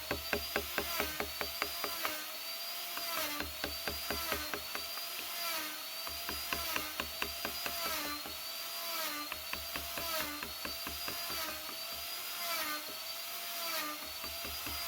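A small electric power tool, of the kind used for wood carving, runs with a whine that dips and rises in pitch in a regular cycle about every two-thirds of a second. Rapid sharp ticks come in clusters, thickest in the first two seconds.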